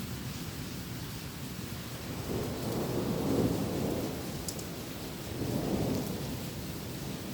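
Steady rain falling, with thunder rumbling low in two swells: a longer roll from about two seconds in, and a shorter one near six seconds.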